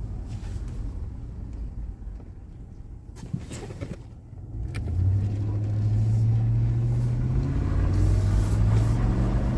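Vehicle engine and road rumble heard from inside the cab: quiet at first, then about halfway through a steady low engine hum comes in and grows louder as the vehicle pulls away and gets under way.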